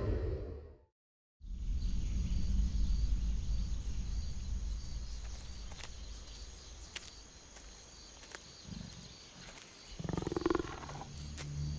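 Big cat growling: a short growl about nine seconds in, then a louder one a second later, over a low rumble and scattered faint clicks.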